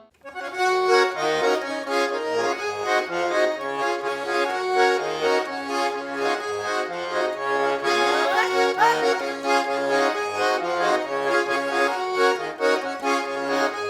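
Accordion playing a lively folk dance tune, with chords over a bouncing bass in an even rhythm: the instrumental accompaniment for chastushki. It starts just after a short break.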